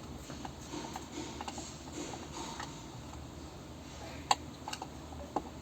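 Light rattling clicks and ticks from the front right interior of an MG ZS over a steady low rumble, the sharpest click about four seconds in. The rattle was traced to the right-hand door trim.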